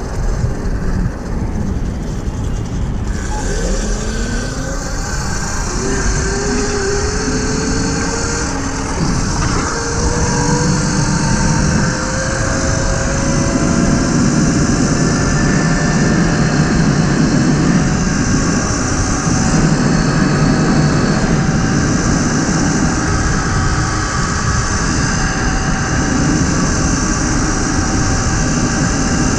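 Tuttio electric dirt bike on a test ride, its controller unlocked with a FarDriver dongle: steady wind rush on the microphone, with the electric motor's whine rising in pitch as the bike accelerates a few seconds in.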